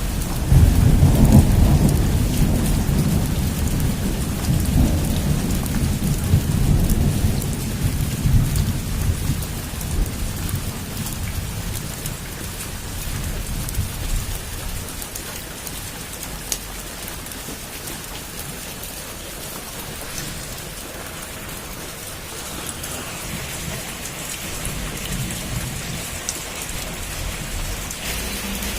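Heavy rain falling steadily, with a long roll of thunder that starts right at the beginning, loudest in the first couple of seconds, and dies away over about ten seconds, leaving the steady hiss of rain.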